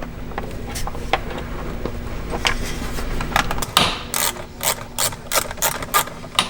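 Ratchet wrench clicking while tightening the bolts that mount a battery isolator: a few scattered clicks and knocks, then a quick run of clicks, about four a second, over the last couple of seconds.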